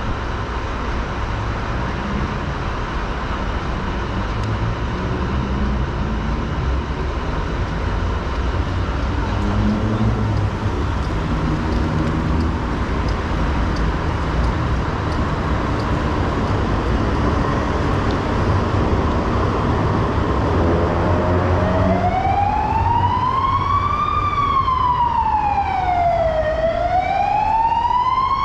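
Steady city traffic noise, then an emergency vehicle's siren comes in near the end with a slow wail, each rise and fall taking a couple of seconds, and becomes the loudest sound.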